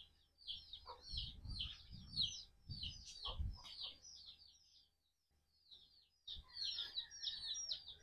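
Birds chirping: a run of short high chirps, several a second, with a pause past the middle. A few low dull sounds come in the first half.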